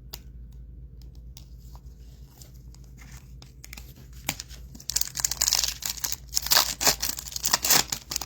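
Foil wrapper of a trading card pack being torn open and crinkled, loud and crackly from about five seconds in, after a few faint clicks.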